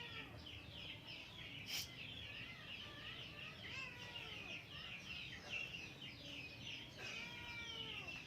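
Birds chirping continuously, with fowl-like calls mixed in and a single sharp click about two seconds in.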